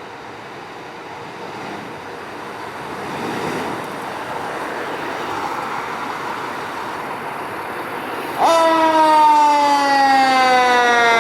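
Spartan ER MetroStar fire engine getting under way with vehicle noise building. About eight seconds in, its siren cuts in suddenly, much louder, on a strong tone that slowly falls in pitch.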